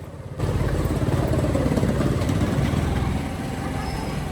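Motorcycle engine running at a steady pace, its rapid firing pulses cutting in suddenly about half a second in.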